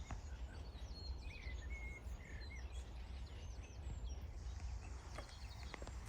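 Songbirds chirping and whistling in quick, short calls over a steady low rumble, with a few faint clicks near the end.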